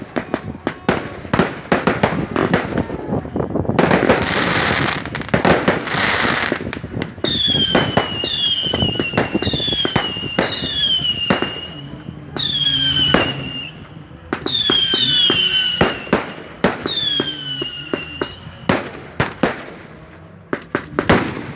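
Fireworks going off: rapid sharp bangs and crackling, with a burst of hissing about four seconds in. Then comes a run of whistling fireworks lasting about ten seconds, each whistle falling in pitch before levelling off, with bangs between them.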